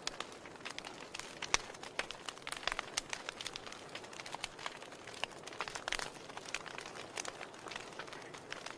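Wood fire burning in a fireplace: a soft steady hiss with irregular sharp crackles and pops, a few louder snaps among them.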